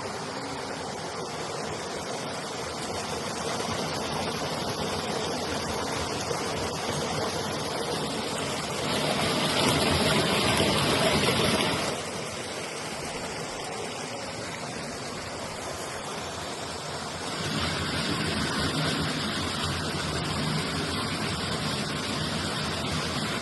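Running water rushing steadily. It grows louder for a few seconds near the middle and again later on.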